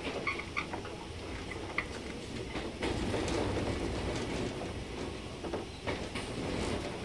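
A 415 series electric multiple-unit train running along the line, with a steady rumble and scattered clicks of wheels over rail joints. The running noise swells from about three seconds in and eases off near the end.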